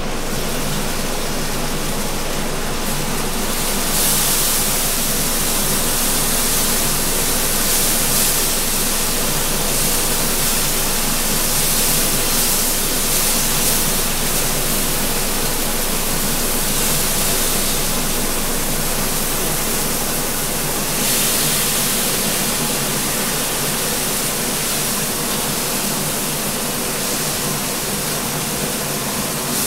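Beef mince frying in a pan on a gas hob: a loud, steady sizzle that grows brighter about four seconds in and again about twenty seconds in, with a low steady hum underneath.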